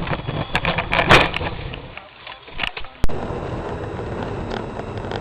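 Car collision: a cluster of sharp impacts, the loudest about a second in, with a couple more knocks near three seconds. After that comes a steady hum of road and engine noise inside a car.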